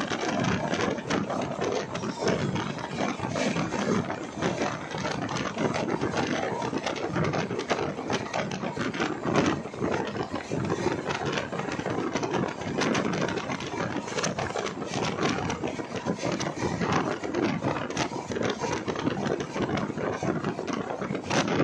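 LHB passenger coaches running at speed: a steady rumble of wheels on the track, with frequent clicks and rattles.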